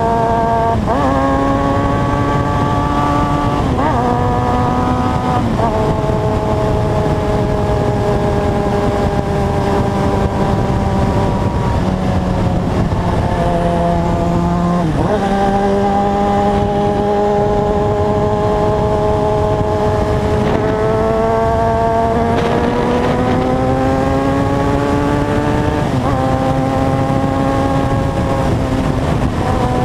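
Motorcycle engine under way on the road, its pitch stepping at several gear changes and otherwise slowly falling and rising with speed, over a steady rush of wind noise.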